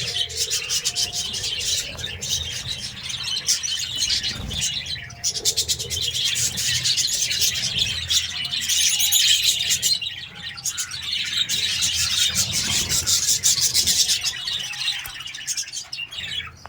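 A group of budgerigars chattering and chirping continuously in fast, overlapping twitters, with brief lulls.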